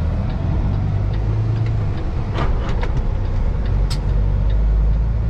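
Kenworth semi truck's diesel engine running with a steady low drone, heard from inside the cab.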